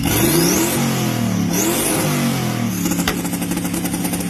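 Chevrolet Camaro engine revved up and down twice, then held at a steady rev with a fast crackle, as on a two-step launch limiter. A single sharp pop comes about three seconds in.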